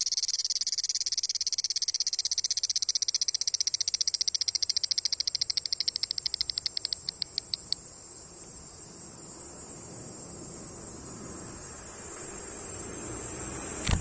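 Cicada singing at close range: a loud, high-pitched song of rapid pulses that merges into a steady high buzz about eight seconds in. A sharp click sounds just before the end.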